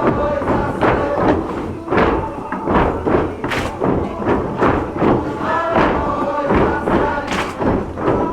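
Dancers' wooden geta stamping in rhythm on the wooden floor of a shrine hall, about two strikes a second, under voices singing a bon-odori song.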